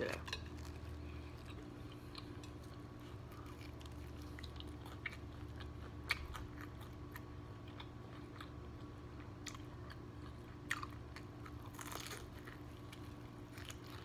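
A person biting and chewing crispy breaded fried chicken close to the microphone: scattered small crunches, clicks and mouth smacks over a steady low hum.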